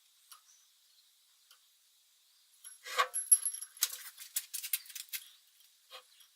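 Small metal objects clinking and jingling as they are handled: a few faint ticks, then a busy run of sharp clinks from about three to five seconds in, with a few more near the end.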